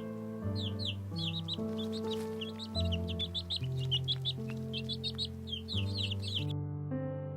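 Rapid, high, falling bird chirps, many a second, over background music of slow held chords; the chirping stops about six and a half seconds in while the music carries on.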